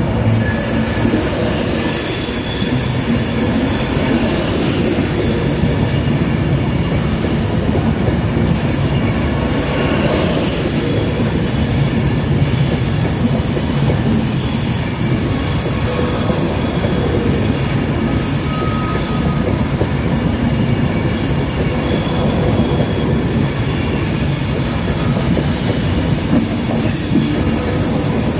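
Avanti West Coast Class 390 Pendolino electric train rolling slowly along the platform, its wheels squealing in several high tones over a steady rumble, with some clicking of wheels over rail joints.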